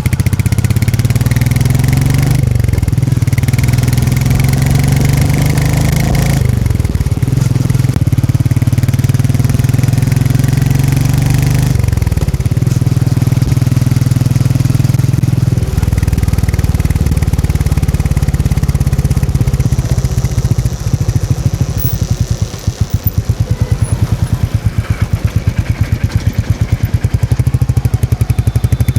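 Royal Enfield Meteor 350's single-cylinder engine and exhaust under way. The note rises and falls with throttle and gear changes several times in the first half. It then settles into a slower, steady thumping beat.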